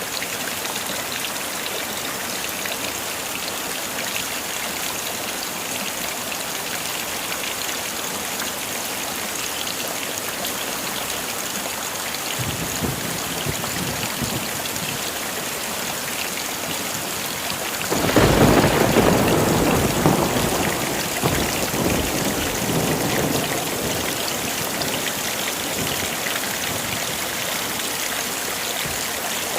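Heavy rain falling steadily, with a faint roll of thunder about twelve seconds in, then a louder clap of thunder about eighteen seconds in that rumbles on and fades over several seconds.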